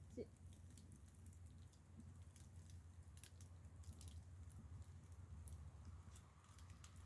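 Near silence: faint scattered clicks and crackles over a low steady hum.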